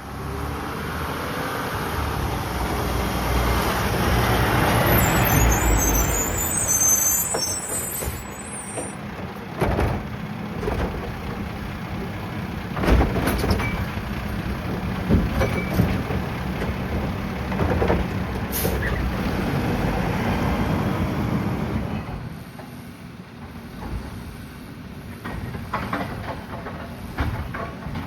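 Mack LR side-loader garbage truck's diesel engine running and building up. A high air-brake squeal and hiss comes a few seconds in, then a series of sharp clanks and knocks. The engine quietens about three-quarters of the way through.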